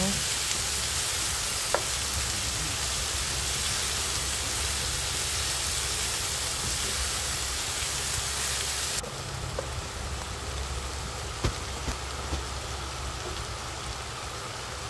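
Chicken and vegetables sizzling steadily as they stir-fry in a pan, with a few light clicks of the spatula against the pan. The high hiss of the sizzle drops abruptly about nine seconds in.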